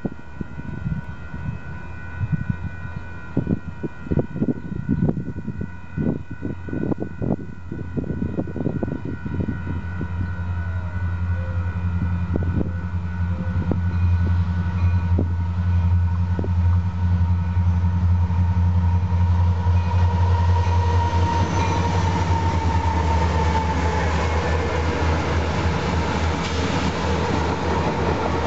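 A consist of six Union Pacific diesel locomotives running light approaches and passes, its deep engine drone building over the first half and staying loud. A steady chord of high tones sounds through the first part, with scattered knocks early on.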